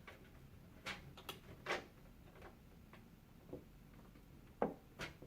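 Faint, irregular clicks and light knocks of small hard parts being handled, about seven in all, the loudest two near the end.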